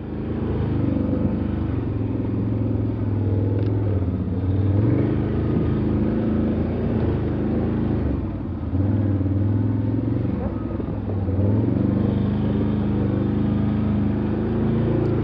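Motor vehicle engine running under changing load, its pitch rising and falling as the throttle varies.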